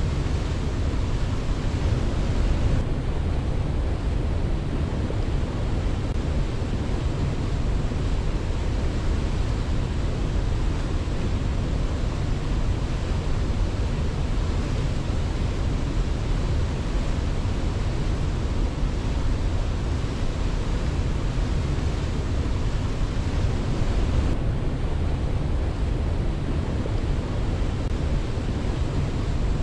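Steady rushing of falling water, a dense even roar heaviest in the low end, with no birdsong or other events standing out.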